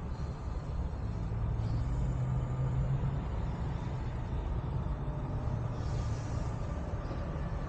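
Ripp-supercharged V6 engine of a Dodge Challenger running, a steady low drone with a stronger hum about one to three seconds in.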